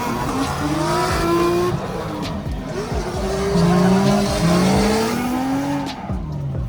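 A drift car sliding: its engine revs rise and fall while the tyres squeal and skid.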